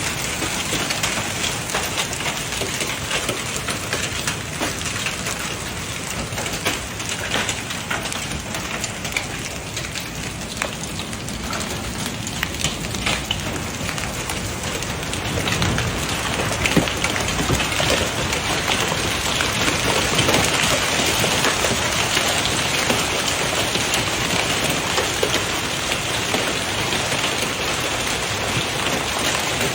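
Heavy rain pouring steadily, a dense hiss with fine pattering, growing a little louder about halfway through.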